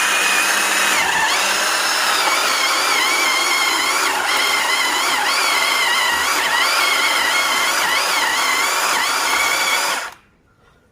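Iron Hope chainsaw engine running at high speed, its pitch wavering up and down, then cutting off suddenly near the end.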